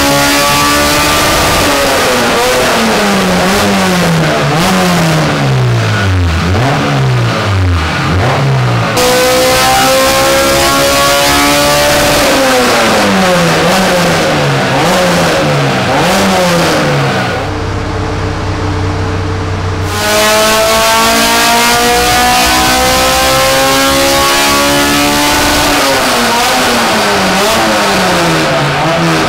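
Honda Civic Type R's four-cylinder engine revving hard on a chassis dyno while its air-fuel ratio is tuned: three long climbs in pitch, with a lower, steady note for a couple of seconds after the second.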